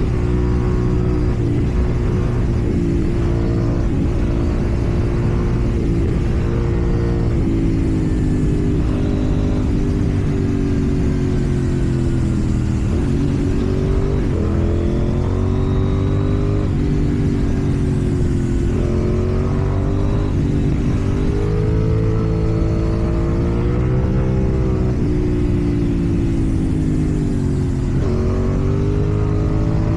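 KTM Duke 790's parallel-twin engine through a slip-on exhaust while riding: the engine note climbs with the throttle and drops back several times, as at gear changes and roll-offs.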